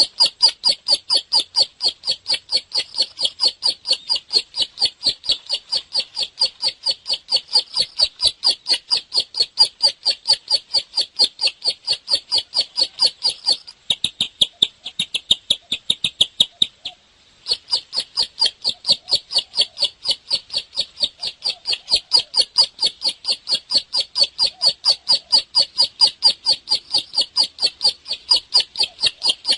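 Bar-winged prinia (ciblek) calling in full song: a fast, even series of sharp high notes, about three to four a second, with a brief break about halfway through.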